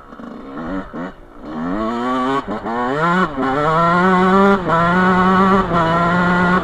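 Dirt bike engine accelerating hard, its pitch climbing through the revs with a few brief drops, then holding high revs and stepping down slightly twice.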